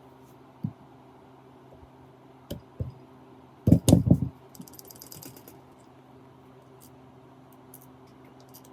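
Hard parts knocking and clicking as they are handled: a few single knocks, then a loud close cluster of clanks about four seconds in, followed by a brief run of rapid, even ticks.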